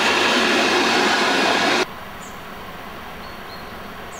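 ER2 electric suburban train passing close at speed, a loud steady rush of wheel and car noise. It cuts off abruptly about two seconds in, and a much quieter steady rumble of a distant approaching train follows.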